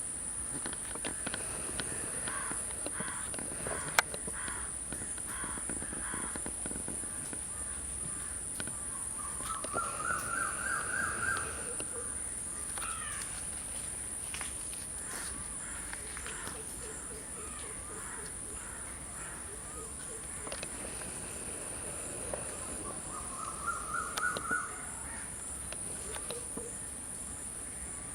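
A steady, high-pitched drone of insects, with birds calling over it: twice a rapid run of notes climbing in pitch, about ten seconds in and again near the end, and a single sharp click about four seconds in.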